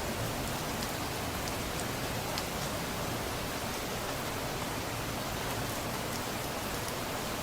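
Steady rain falling, an even hiss with faint drops ticking through it.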